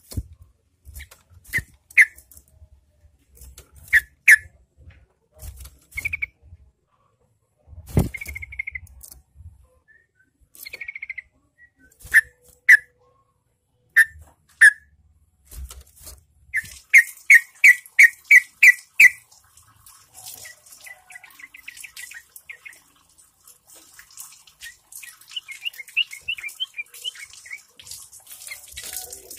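Yellow-vented bulbuls calling: scattered short whistled notes, a quick run of about seven notes a little past the middle, and faster chattering notes near the end. Low rumbling sits under the calls in the first half.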